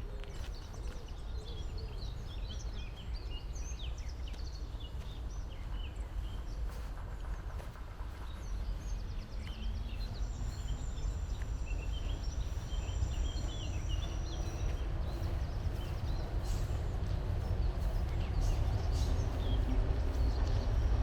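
Several small birds chirping and singing over a steady low rumble, which grows louder in the last few seconds. A thin, high, steady whistle is held for about five seconds in the middle.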